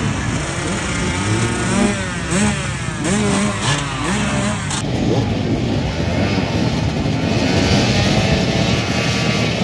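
Several motocross bikes racing, their engines revving up and falling back again and again as they climb through the gears. The sound changes abruptly about halfway through, as if at a cut to another part of the track.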